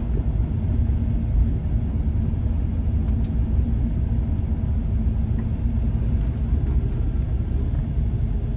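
Ford 5.0 Mustang V8 engine and exhaust running with a steady low rumble, heard from inside the car's cabin; it is running really well, the engine's hard runs having cleaned it out.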